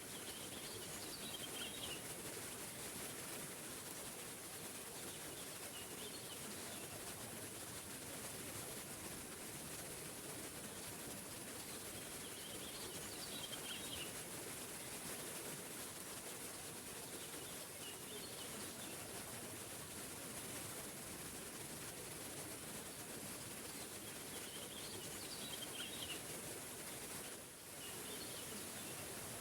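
Waterfall rushing steadily, with a songbird repeating a short chirping phrase every few seconds over the water.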